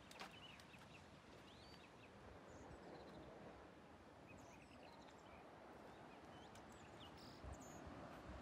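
Near silence: a faint, steady outdoor hiss with a few soft, short bird chirps scattered through it.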